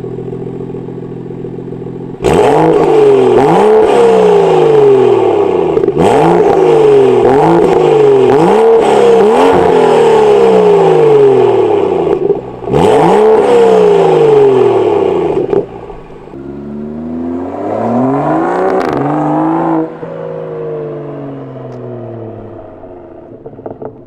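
BMW N55 turbocharged straight-six running a catless downpipe and a loud aftermarket exhaust. It idles, then suddenly goes loud about two seconds in, its pitch climbing and dropping again and again under hard acceleration. It goes quieter after about fifteen seconds, rises once more, cuts off and fades away near the end.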